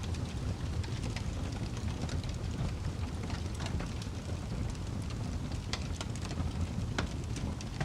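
Crackling fire: a steady low rumble with scattered sharp pops and crackles, a couple of louder pops near the end.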